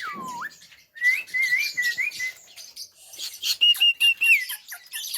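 Javan myna whistling and chattering. A whistle glides down at the start, then comes a run of short whistled notes mixed with rapid clicking chatter, and near the end four quick repeated whistles.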